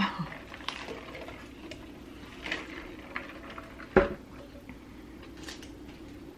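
Quiet eating sounds of a shrimp burger being bitten and chewed: small soft clicks and crackles, with one sharp knock about four seconds in.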